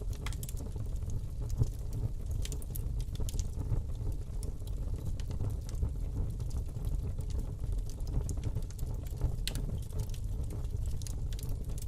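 Fire burning in a fireplace: a steady low rumble of flame with scattered sharp crackles and pops throughout.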